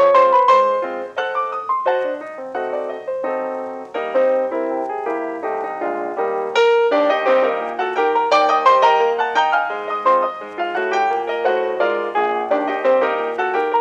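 Background music: solo piano playing a quick run of notes.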